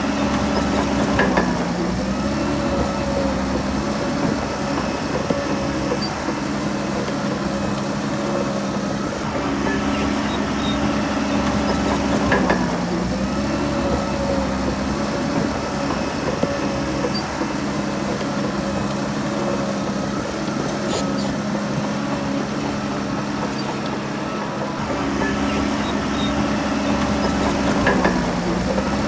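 Shantui DH17C3 PRO bulldozer's diesel engine running steadily under work. Its pitch sags briefly and recovers three times: about a second in, near the middle, and near the end.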